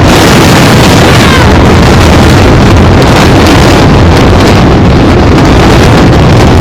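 Controlled demolition of twin high-rise towers by explosive charges: a sudden, very loud, continuous blast-and-collapse rumble with deep low rumble, heavily distorted as it overloads the microphone.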